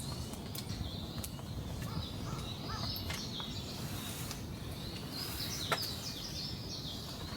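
Wild birds chirping over a steady background hiss, with a few sharp isolated pops or ticks.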